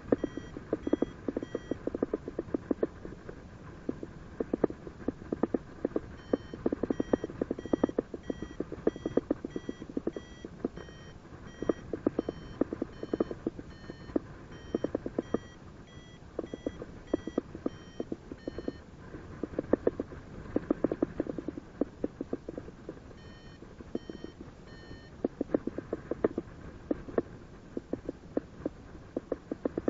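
Paragliding variometer beeping in three runs of short tones, about two a second, each beep a little higher or lower than the last: the sound it makes while the glider is climbing in lift. Dense crackling clicks run underneath.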